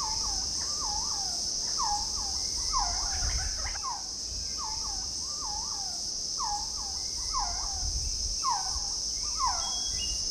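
Forest ambience: a steady, high insect chorus with short bird calls repeated one or two times a second, each a quick dipping-and-rising note.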